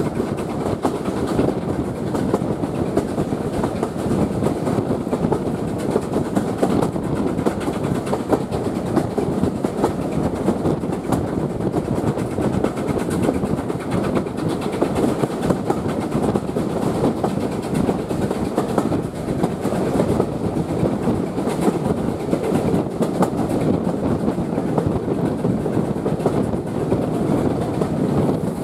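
Steam-hauled heritage train running along the line: a steady rumble with the clatter of wheels over the rails, holding an even level throughout.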